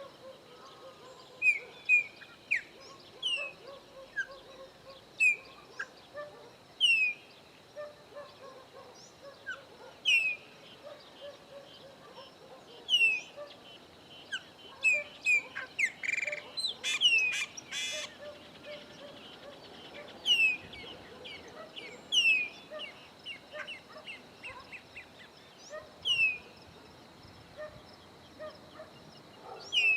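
Chopi blackbirds calling: short, sharp, falling whistled notes repeated every second or two, with a louder run of notes about halfway through.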